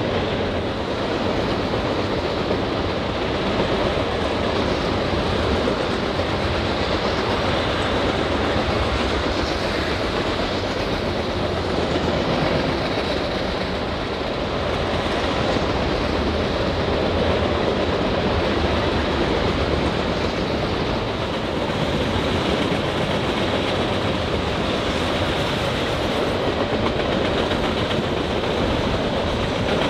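Norfolk Southern loaded trash freight train rolling past, a steady noise of its wheels running on the rails.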